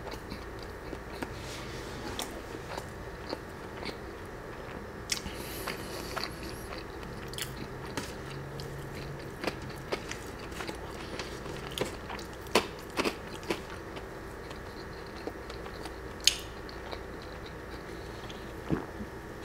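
Close-miked chewing and mouth sounds, with scattered short crunchy bites and clicks; near the end he drinks from an aluminium soda can.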